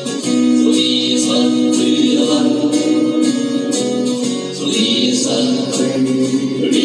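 A song performed with singing over a steadily strummed guitar.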